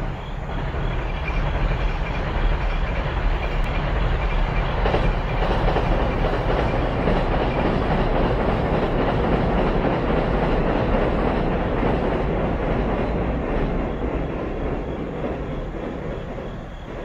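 Electric passenger train passing on the line: a steady rumble of wheels on rails that swells over the first couple of seconds, holds, and slowly fades near the end.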